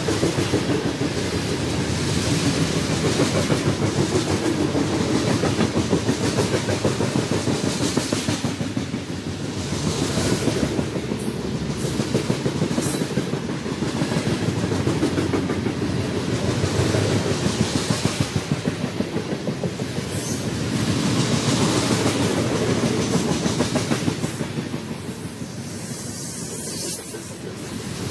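BNSF freight cars rolling past, their wheels clattering rapidly on the rails. The clatter swells and eases every few seconds and drops off somewhat near the end.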